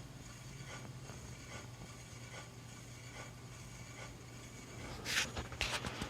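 Hunter Original ceiling fan running on low, its motor humming steadily, with a faint scrape repeating about once a second, a scraping noise whose cause the owner cannot find even after oiling. About five seconds in comes a louder rustle with sharp clicks.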